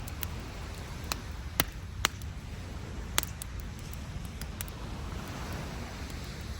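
Wood campfire crackling, with a handful of sharp pops, the loudest about one and a half and two seconds in. Underneath is a steady low rumble of surf and wind on the microphone.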